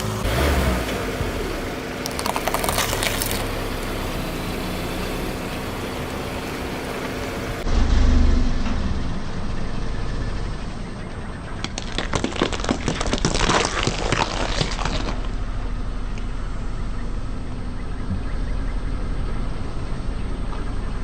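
A car's tyre rolling slowly over crunchy objects and crushing them, with the car's engine running at low speed. Short bursts of crackling and snapping come near the start. About halfway through a low thump is heard, followed by a longer stretch of dense crackling.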